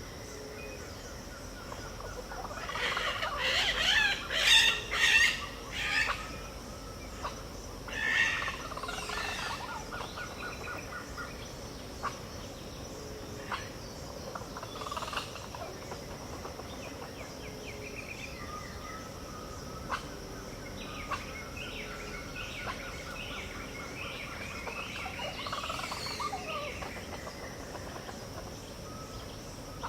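Dawn chorus of wild Pantanal birds: a burst of loud overlapping calls in the first few seconds, then a fast even trill, then scattered shorter chirps. A steady high insect drone runs underneath.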